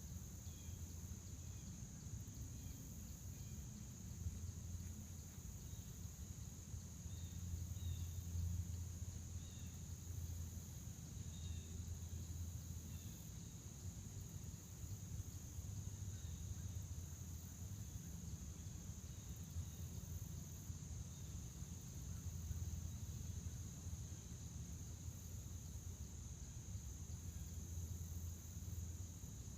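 Crickets trilling in a steady, unbroken high-pitched chorus, with a few faint short chirps in the first half and a low rumble underneath.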